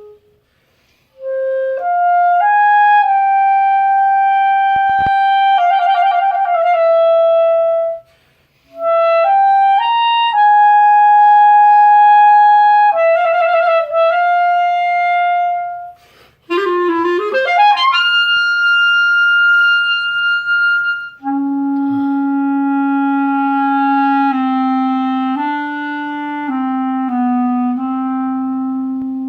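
Solo clarinet playing a slow étude: held notes with trills, a fast upward run to a high held note, then a phrase of lower notes. There are short pauses for breath near the start and about eight seconds in.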